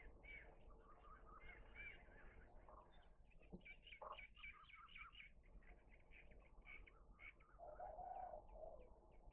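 Faint birdsong: small birds chirping over and over in short high notes, with a lower call about eight seconds in.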